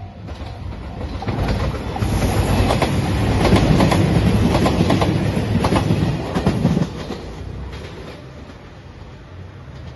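JR Shikoku 2700 series diesel limited express train passing close by, its wheels clacking over the rail joints under a steady rumble, building to its loudest in the middle. About seven seconds in the sound drops suddenly to a quieter, more distant train.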